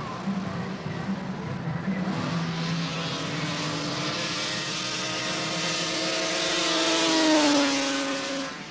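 Racing snowmobile's two-stroke engine at full throttle on a grass drag run. Its pitch climbs steadily as it grows louder, then drops sharply near the end as the sled passes and fades away.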